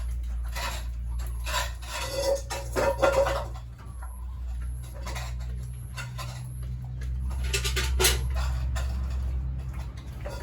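Irregular metallic clattering and scraping, busiest in the first few seconds and again near the end, over a steady low hum.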